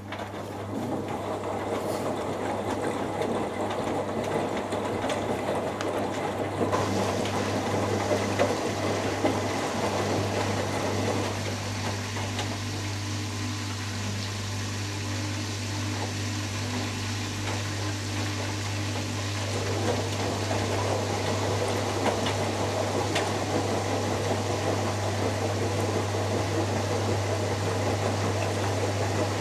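Two washing machines running together: the Hoover Dynamic Next DXA610IW3 in its final spin and the Beko Pro AquaTech WX94044EO in its final rinse. A steady motor hum with water swishing, and a second, higher tone that comes in for several seconds in the middle.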